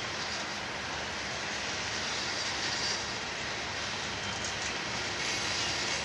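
Freight train of Herzog hopper cars rolling past on the rails, a steady noise of wheels on track.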